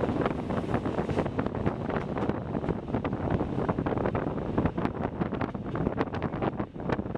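Rhaetian Railway metre-gauge train running along the track, heard from an open carriage window: wind buffeting the microphone over the rumble of the wheels, with a dense clatter of short clicks and rattles from wheels on rails.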